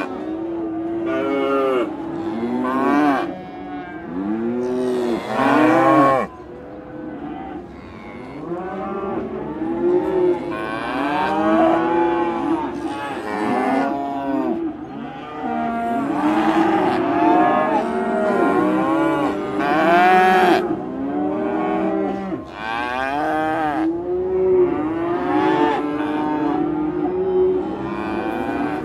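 Several cows mooing one after another, their calls overlapping with hardly a pause. Each moo rises and falls in pitch.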